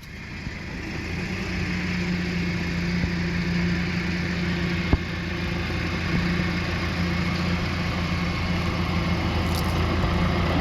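A motor vehicle engine running steadily with a low hum, and a single sharp click about five seconds in.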